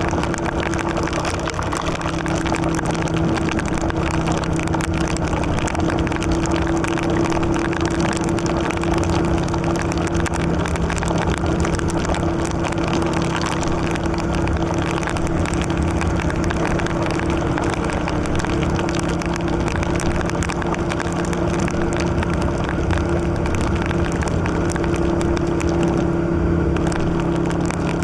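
Yamaha Virago XV750's V-twin engine running at a steady cruise, over a steady hiss of wind and tyres on a wet road.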